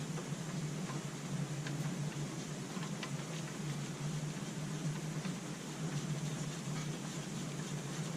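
Steady low hum over an even hiss, with a few faint clicks of small parts being handled.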